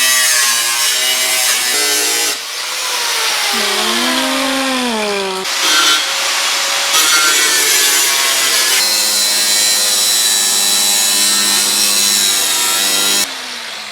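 Power grinder working the sheet metal of a Nissan 350Z quarter panel, a harsh grinding hiss over a motor whine whose pitch sags and rises as the disc is pressed into the metal. The sound changes abruptly several times.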